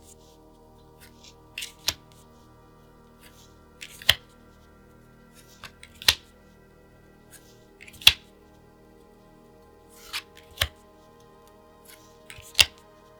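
Hands handling plastic card sleeves and their packaging: a soft rustle, then a sharp snap or tap, about once every two seconds, six times.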